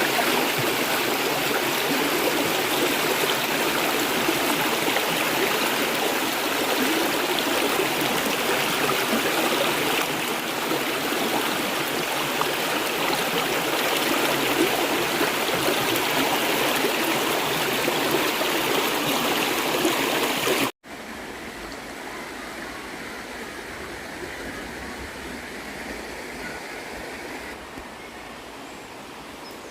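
River water gushing: a steady, loud rush of flowing water. About two-thirds of the way through it cuts off abruptly and a quieter, softer rush carries on.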